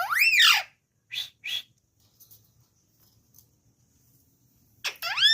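Pet parrot calling: a loud pitched call that glides up and back down, then two short rough chirps about a second later. Another rising-and-falling call comes near the end.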